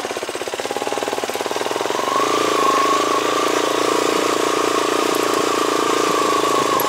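A dual-sport motorcycle's engine running steadily under way, pulling the bike along a rough dirt track; its note and loudness rise a little about two seconds in and then hold.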